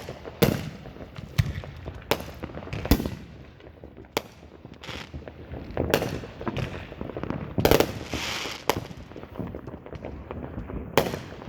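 Consumer fireworks going off in the neighbourhood: a run of irregular sharp bangs, some followed by a crackling hiss.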